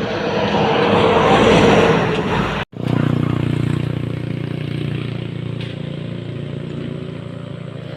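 Road vehicle noise: a vehicle goes by close, swelling in level, then after a sudden cut a motor vehicle's engine runs steadily and fades slowly.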